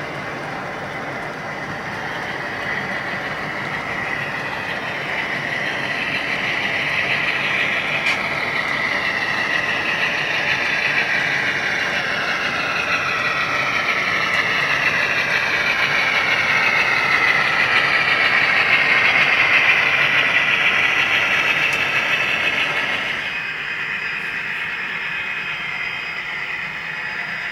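HO scale model train running on the layout, its motor and wheels on the track making a steady whirring rush. It grows louder as the train nears, with falling tones, then drops off abruptly near the end.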